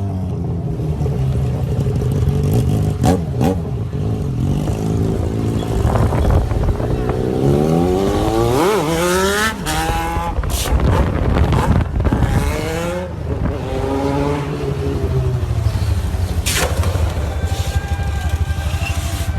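Motorcycle engines running and revving, the pitch climbing and dropping several times in the middle, over a steady low engine drone.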